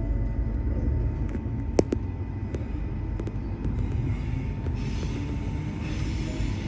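Brisbane suburban electric train running between stations, heard from inside: a steady low rumble with one sharp click about two seconds in and a hiss rising near the end.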